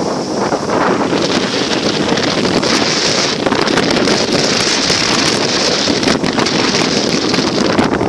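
Storm wind buffeting the microphone: a loud, steady rushing with irregular gusty thuds.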